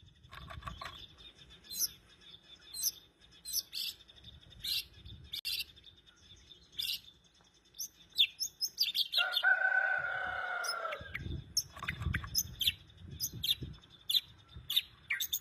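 White-rumped shama singing: sharp, high chirps and whistles about a second apart, with a longer, lower drawn-out note about two-thirds of the way through. A few low thuds follow in the second half.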